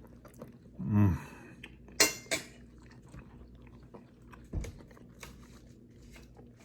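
Eating sounds: two sharp metallic clinks of cutlery on a plate about two seconds in, over small clicks of chewing and utensils. A short hum of a voice falling in pitch comes about a second in, and a dull thump at about four and a half seconds.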